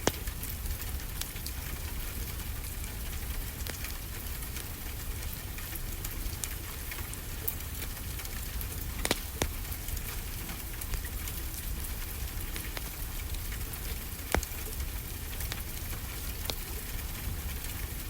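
Steady rain hiss with a low rumble underneath, and the crackle of a wood fire in a fireplace: many small sharp pops throughout, with a few louder ones about 9 and 14 seconds in.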